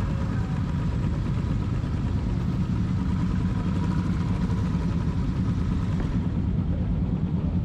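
Motorcycle engine running steadily, a low, even engine sound with no change in pitch.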